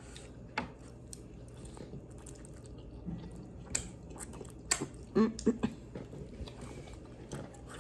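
Close-up mouth sounds of someone eating spicy instant noodles: wet chewing with scattered clicks and smacks, busiest and loudest about four to five and a half seconds in.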